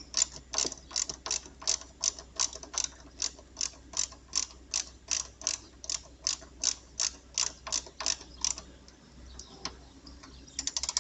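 Ratchet wrench clicking at about three clicks a second as the chassis earth screw is tightened, stopping about eight and a half seconds in, then a few more clicks and a quick run of clicks near the end.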